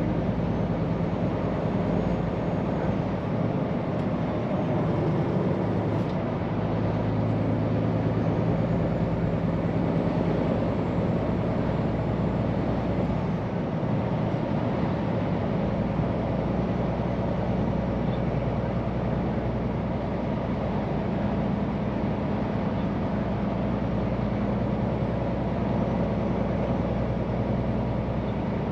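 Scania P410 truck's diesel engine running steadily while driving, with continuous road and tyre noise and no sudden events.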